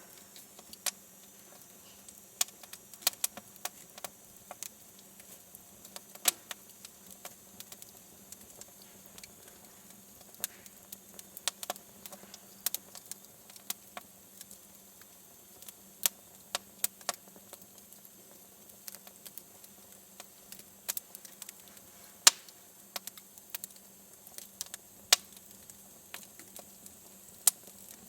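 Wood fire in a fireplace crackling: sharp pops and snaps at irregular intervals over a faint steady hiss, one of the loudest about 22 seconds in.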